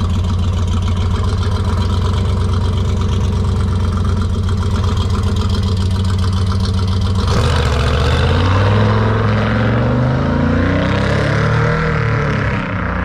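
Car engine idling steadily, then revved up and down several times from about seven seconds in.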